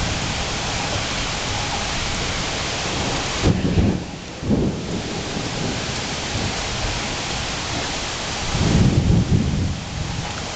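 Steady rain with thunder: a short rumble about three and a half seconds in, another a second later, and a longer, louder rumble near the end.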